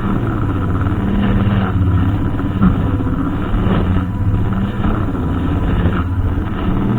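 Brushcutter engine running steadily at working speed, its pitch wavering slightly, with a few short sharper bursts as it cuts.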